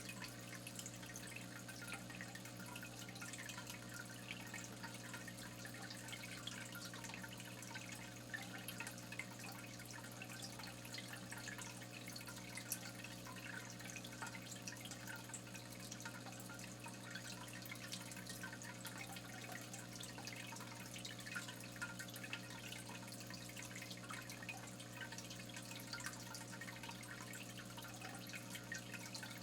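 Water dripping and trickling steadily in many small ticks, over a steady low hum.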